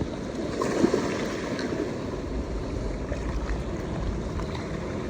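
Gentle surf washing at the shoreline, with wind rumbling on the microphone.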